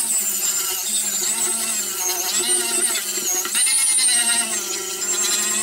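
Electric grinder running continuously under load, its motor pitch sagging and recovering several times as it bears on the work.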